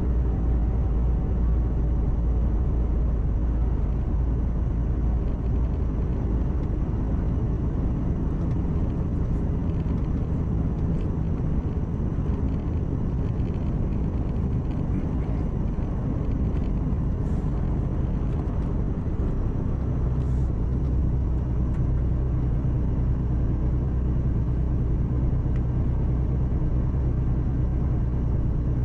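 Truck's diesel engine running at cruise inside the cab, a steady low drone with tyre and road noise. The engine note shifts slightly about halfway through.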